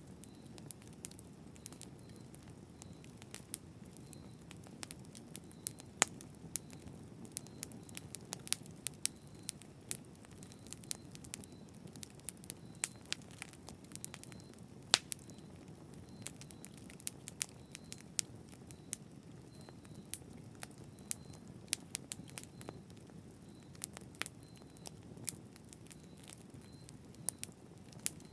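Wood fire burning: a steady low rush of flame with frequent irregular crackles and pops from the burning wood. A few louder snaps stand out, the sharpest about six and fifteen seconds in.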